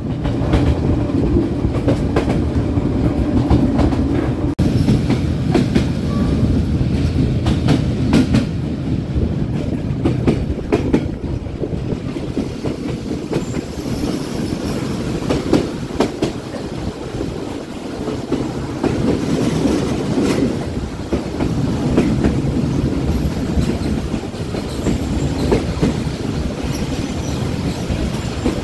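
Passenger train running on the rails: a steady low rumble with wheels clacking irregularly over rail joints.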